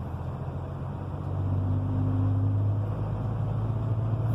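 Heavy truck's diesel engine running with a steady low hum, growing louder about a second in.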